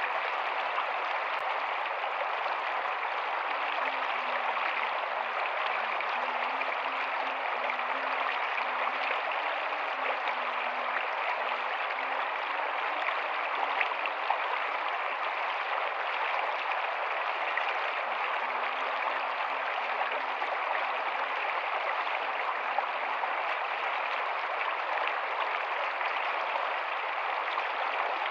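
Rocky stream running steadily, an even rush of water over stones.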